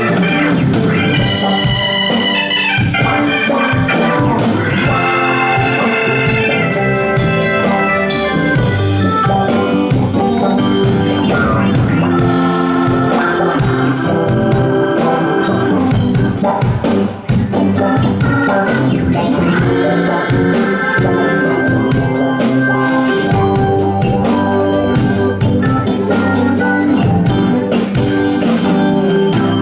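Live rock band playing an instrumental passage: electric organ to the fore over guitar, bass and drums, with quick falling runs of notes.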